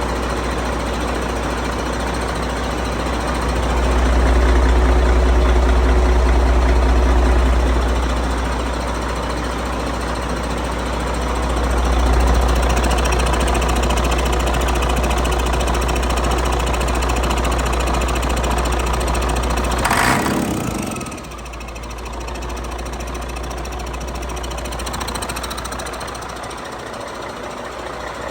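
2014 Detroit DD13 12.8-litre turbocharged six-cylinder diesel engine running on a test run, growing louder twice in the first half. About 20 seconds in there is a brief sharp noise, and the engine then settles quieter.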